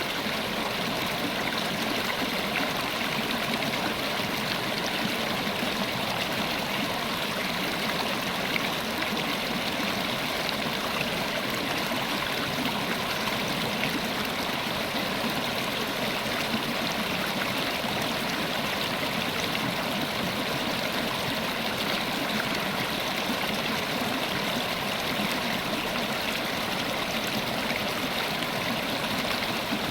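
River water flowing steadily, a constant rushing and splashing of a stream over rocks.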